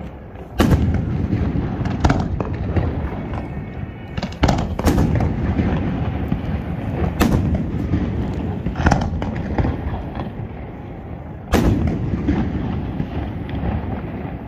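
Aerial firework shells bursting overhead: about seven sharp bangs spread over the stretch, each trailed by a rolling rumble of echo.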